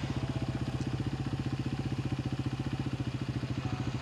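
Quad bike (ATV) engine idling steadily, with an even low pulsing chug.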